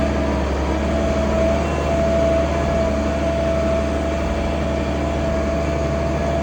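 International Harvester 1566 tractor's six-cylinder turbo diesel running steadily while pulling a field cultivator, with a steady whine over the engine drone.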